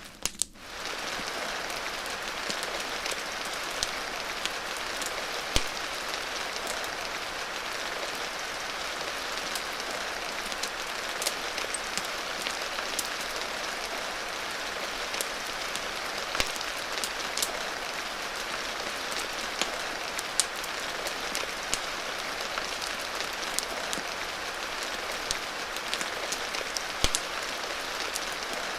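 Steady rain hiss with irregular sharp pops scattered through it, in the manner of a crackling wood fire. The sound dips briefly just after the start.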